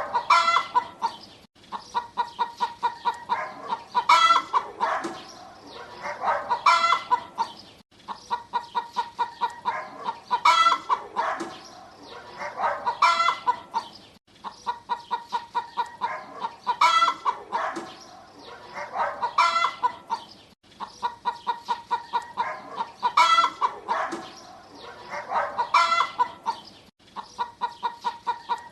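Hen cackling: quick runs of clucks, each followed by a few louder calls, repeating in a regular cycle about every six seconds.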